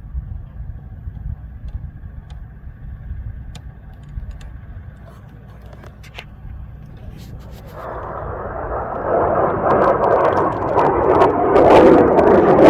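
Sound of a large high-power rocket on a P-class motor reaching the spectators: low rumble at first, then about eight seconds in a loud crackling roar sets in and keeps growing louder.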